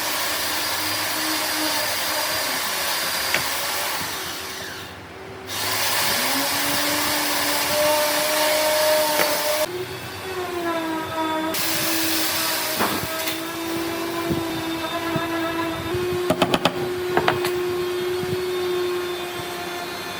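Electric power tool motor running with a steady whine that shifts in pitch as it works. The whine fades away briefly about five seconds in and then comes back up. A few sharp clicks come near the end.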